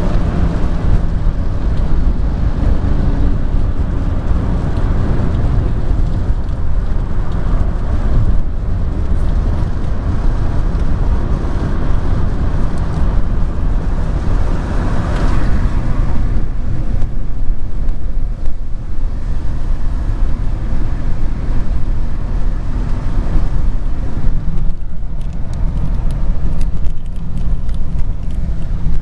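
Car traffic on a rain-wet road: steady road noise, heaviest in the low end, with a brief swell about halfway through.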